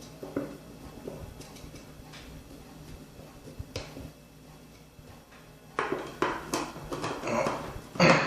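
Kitchen handling noise: scattered knocks and clatter of vegetables and a food chopper's container being handled, with a run of louder clattering about six seconds in.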